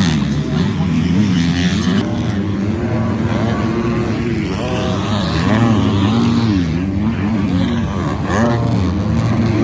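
Several 250cc four-stroke motocross bikes on the track, their engines revving up and down over and over and overlapping as riders work the throttle and shift.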